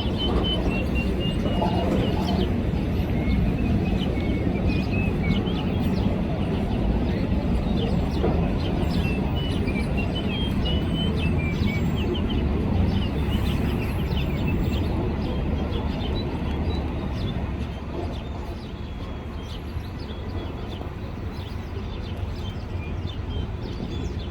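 Small birds chirping again and again over a steady low city rumble, the chirps thinning out after the first half.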